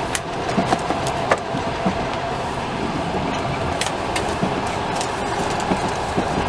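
Steady running noise of a passenger train carriage in motion, heard from inside the compartment, with a few sharp clicks and rustles of cardboard toy boxes being opened and handled.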